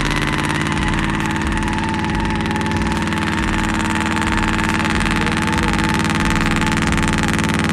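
A vehicle engine idling steadily, with an uneven low pulse underneath and a faint whine over it.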